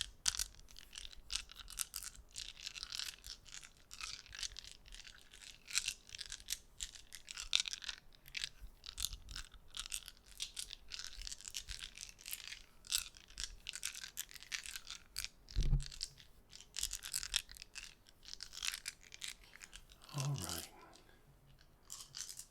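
Close-miked ASMR trigger: a dense, irregular run of soft, rapid clicks and scratchy ticks from small objects being handled. A single soft thump comes about three-quarters of the way through.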